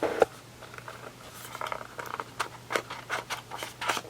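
A small box of essential oil bottles being opened and handled: a run of short clicks and rustles of packaging, busiest in the second half.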